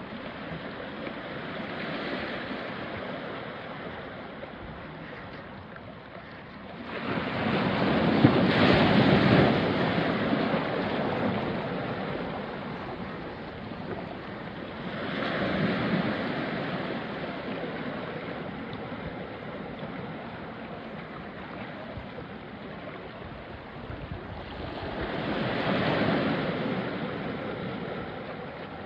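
Small sea waves washing onto a rocky shore, the rush swelling and ebbing, with the biggest surge about eight seconds in and smaller ones near the middle and toward the end.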